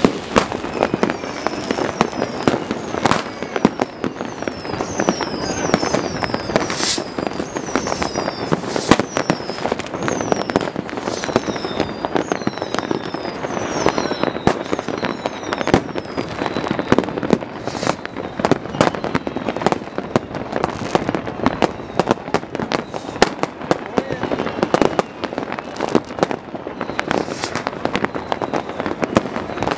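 Many fireworks going off in a dense, unbroken barrage of bangs and crackles. Through roughly the first half, shrill whistles falling in pitch are heard again and again.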